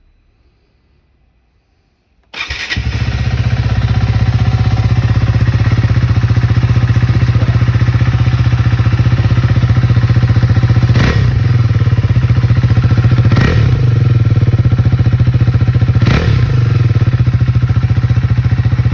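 KTM 390 Adventure's single-cylinder engine starting about two seconds in through its stock muffler with the baffle cut out, then running loudly at idle with three short blips of the throttle in the second half.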